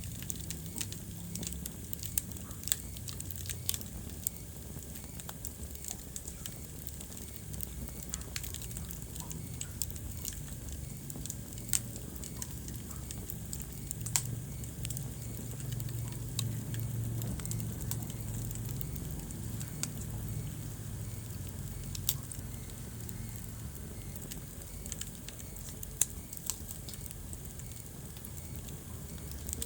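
Wood fire crackling in a fireplace: scattered sharp pops and snaps, a few louder than the rest, over a steady low rumble of the burning.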